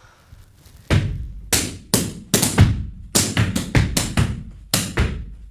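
Gumboot dance percussion: hands slapping rubber boots, claps and boot stamps on a platform. After about a second of quiet, about a dozen sharp strikes follow in quick groups.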